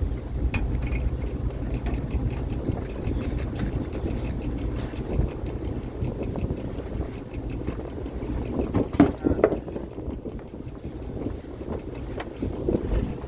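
A fishing boat's engine running steadily with a low hum, under scattered knocks and clatter, with a louder cluster of knocks about nine seconds in.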